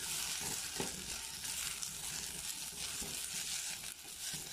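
Tuscan sausage pieces and onion wedges sizzling as they fry in a metal pot. A silicone spatula stirs them, scraping and knocking on the pot now and then.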